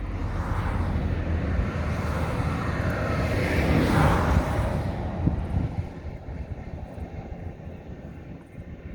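A vehicle passing by, its noise swelling to a peak about four seconds in and then fading away over a steady low rumble.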